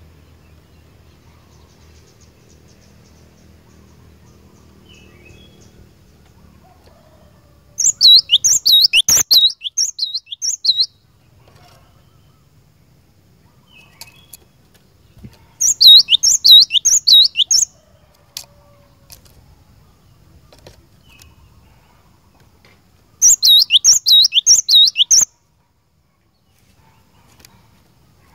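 Cinereous tit (glatik batu) singing in three bouts of fast, repeated sharp high notes, each bout lasting two to three seconds, with pauses between them.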